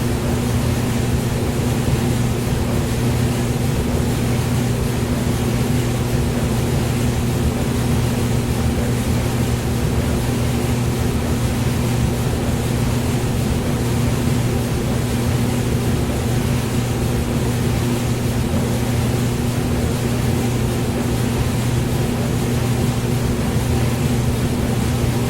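Hair dryer running continuously at a constant speed: an even rushing hiss of air over a steady low motor hum, unchanging throughout.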